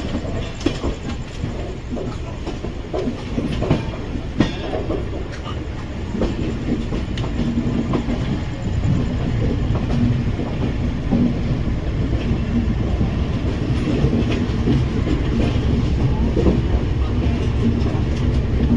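Passenger train running on the track, with a steady rumble and the clatter of wheels over rail joints. Scattered sharp clicks come in the first few seconds, and the rumble grows louder about eight seconds in.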